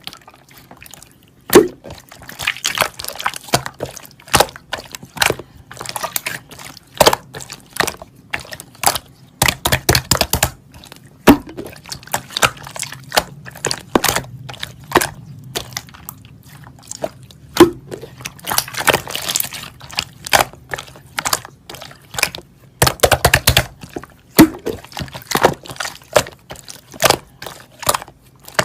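Irregular wet clicks and squishes, with liquid sloshing and dripping.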